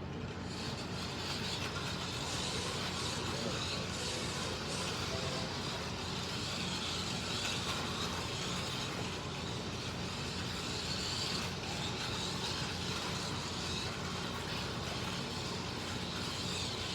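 Slot cars lapping the track: their small electric motors give a steady whir and hiss that comes up about half a second in as the race restarts.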